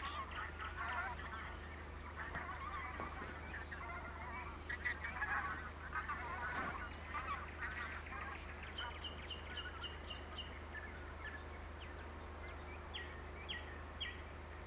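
Birds calling: dense chattering calls through the first half, then a run of about six short, evenly spaced high notes about nine seconds in, and a few scattered calls near the end.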